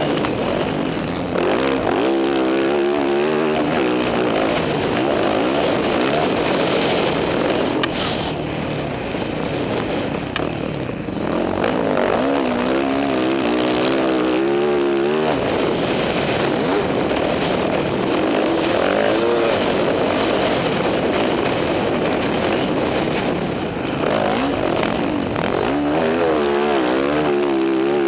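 Motocross bike engine running hard while riding. Its pitch swings up and down quickly as the throttle opens and closes, in three spells.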